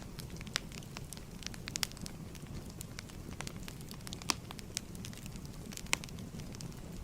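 Wood fire crackling, irregular sharp pops and ticks over a steady low rumble, with a few louder pops scattered through.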